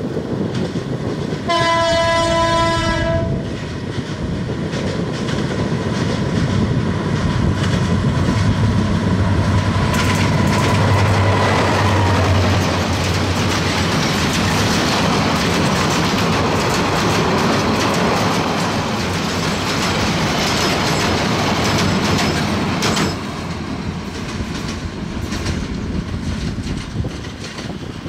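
A diesel locomotive sounds its horn once, for under two seconds, about two seconds in. A passenger express train then passes close by over a steel girder rail bridge: the locomotive's engine hum, then a long run of wheels clattering over the rail joints and spans. The clatter drops away suddenly about five seconds before the end, leaving a fainter rumble as the train moves off.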